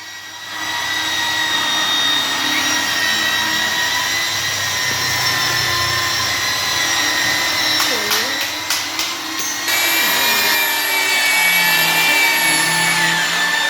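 Electric power tool motor running steadily with a high whine, with a few sharp clicks about eight seconds in.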